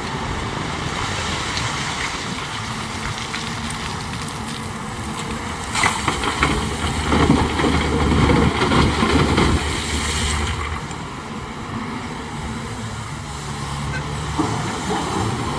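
Heavy diesel earthmoving machinery running steadily, with a louder stretch of scraping and clattering from about six to ten seconds in.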